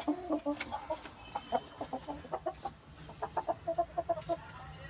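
Chickens clucking: quick runs of short clucks, with a brief lull a little after the halfway point.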